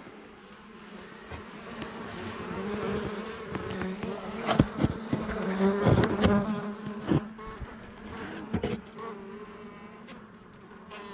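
A honeybee colony buzzing, a steady hum that grows louder and then eases off, with a few sharp knocks in the middle.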